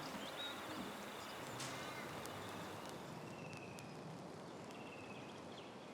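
Faint outdoor ambience: a low even hiss with a few brief, high trills and light clicks.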